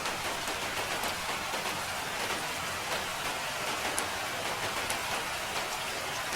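Steady rain falling, an even hiss with many individual drops ticking on a hard surface.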